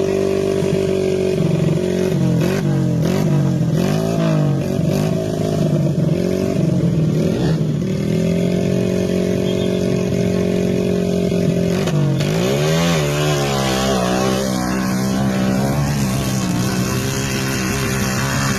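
Motorcycle engine running hard under load, typical of a modified underbone bike on a hill climb. Its pitch wavers up and down as the throttle is worked, holds steady, then dips and climbs again about twelve seconds in before settling lower.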